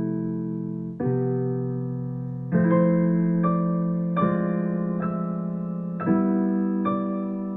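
Background piano music: slow chords struck about once a second or so, each left to ring and fade.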